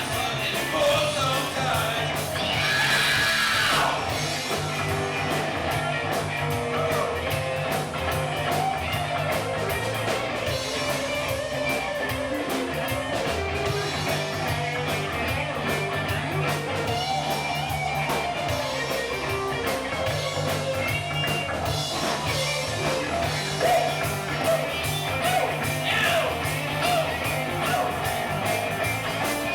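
Live rock-and-roll band playing: electric guitar and bass over drums, with a singer.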